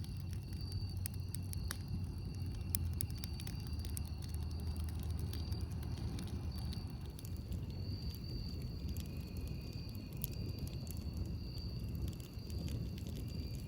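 Campfire burning with frequent sharp crackles and pops over a steady low rumble. Faint high steady tones come and go in the background.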